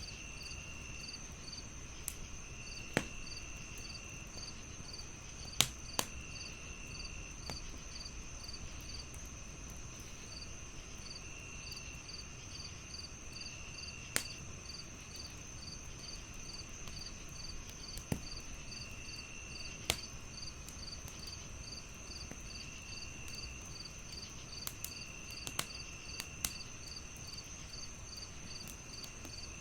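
Crickets chirping steadily at about three chirps a second over a continuous high insect buzz, with a second insect trilling in short stretches. A wood fire crackles underneath, with sharp pops scattered through.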